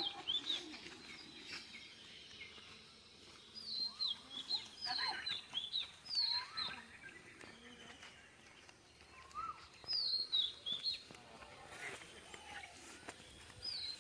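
Birds singing in the open: short phrases of high notes, each falling in pitch, repeated in bursts about a second long, with a few quieter lower calls between.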